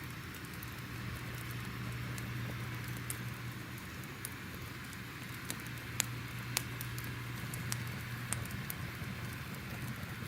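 Crackling fire: a steady soft rush with sharp pops and snaps scattered through it, more frequent in the second half, the loudest a pair about six seconds in.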